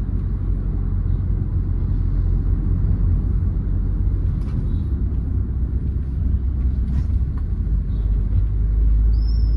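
Steady low rumble of a Hyundai Verna 1.6 turbo diesel on the move, engine and road noise heard from inside the cabin. A few faint ticks and a brief high chirp come near the end.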